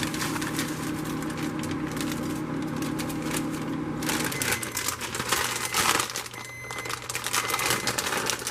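Crinkling and crackling as frozen spaghetti noodles are put into a pot of boiling water, with a steady hum underneath; the crackling gets busier about halfway through.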